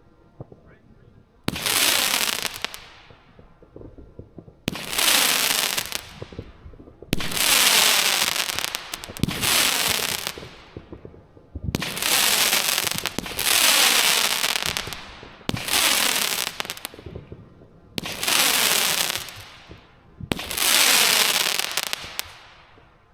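Firework cake firing mines one after another, about nine shots two to three seconds apart. Each is a sudden report followed by a dense hiss and crackle that fades over a second or two.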